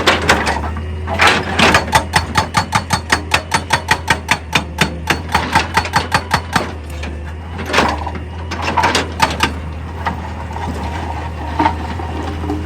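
Machinery knocking: a fast, even run of sharp knocks, about five a second, for about five and a half seconds over a steady low hum, then a few scattered knocks.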